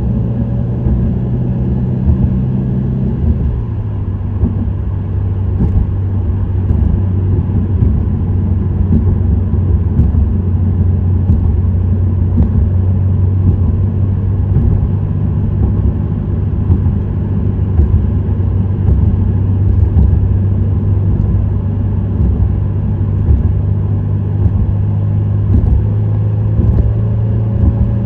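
Subaru WRX STI's turbocharged flat-four engine with an STI Performance muffler, droning steadily while driving, over a haze of tyre and road noise. The engine note steps down about three seconds in and climbs again near the end.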